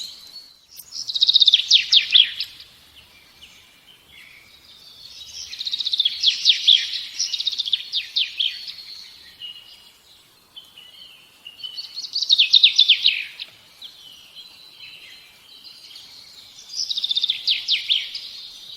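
A songbird singing four phrases, each a quick run of high notes that drops in pitch toward its end, spaced a few seconds apart.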